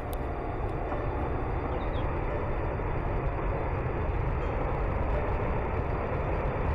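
Continuous low rumble and roar of a landslide, earth and debris moving, growing slightly louder. A few faint high chirps come about two seconds in.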